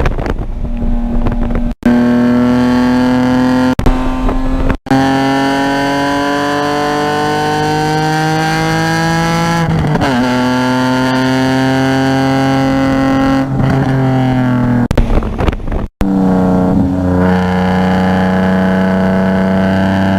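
Car engine heard onboard while lapping a circuit, running under load with its pitch climbing slowly through long pulls. The pitch drops sharply about halfway through, and the sound cuts out briefly several times near the start and again about three quarters through before it settles at a steady pitch.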